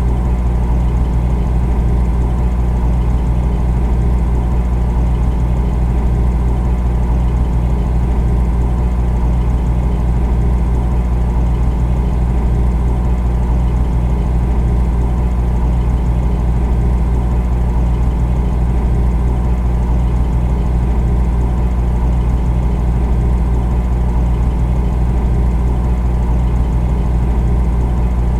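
Refrigerator running with a steady, deep hum and a low buzz, unchanging throughout.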